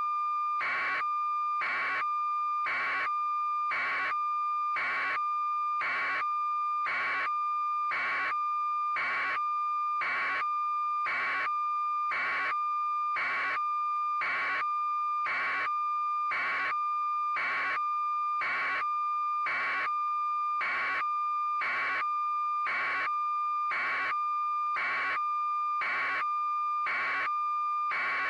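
Electronic beeping: a steady high tone with a pulse repeating evenly about one and a half times a second, unchanging throughout.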